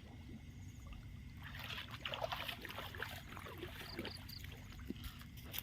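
Shallow water sloshing and trickling, busiest from about a second and a half in to about four seconds, with small clicks among it.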